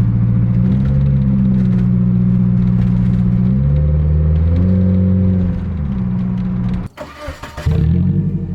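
Nissan 240SX's 2.4-litre four-cylinder engine running with its muffler removed (catalytic converters left in), its engine speed stepping up and down several times. About seven seconds in the sound cuts out sharply for under a second with a brief clatter, then the engine note comes back.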